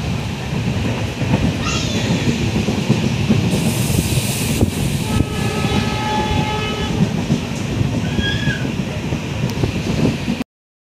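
Passenger train running at speed, a steady low rumble of the coach on the rails. About five seconds in, a horn sounds for about a second and a half. The sound cuts off near the end.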